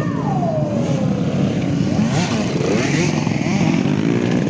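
Trail motorcycle engines running, their revs rising and falling, with one engine's pitch dropping away at the start.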